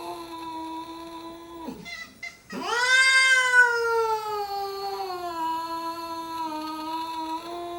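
Cat yowling in a territorial standoff: a long, drawn-out wail that breaks off under two seconds in, then after a short pause a louder wail that rises and slowly sinks in pitch and is held on.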